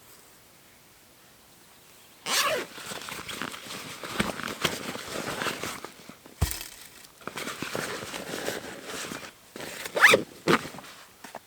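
Close rustling and scraping, as of gear being handled, with sharp loud strokes about two and ten seconds in and a single dull thump midway.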